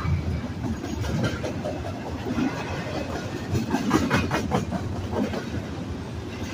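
Intermodal freight cars (double-stack container well cars and trailer cars) rolling past: a steady rumble of steel wheels on rail, with a cluster of clacks loudest about four seconds in.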